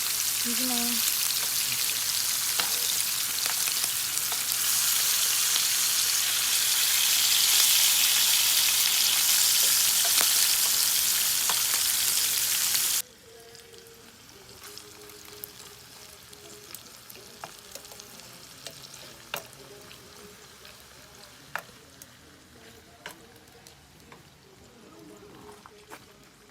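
Beef sizzling loudly as it fries on a hot pan, a steady crackling hiss. About thirteen seconds in it cuts off suddenly to a much quieter background with a few faint scattered clicks.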